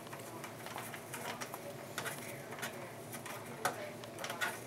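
Irregular small clicks and scrapes of a screwdriver driving screws through a motherboard into the case's standoffs, the sharpest tick a little after three and a half seconds in.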